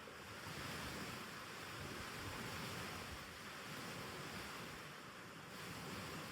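Soft, steady rushing ambient noise with no distinct events.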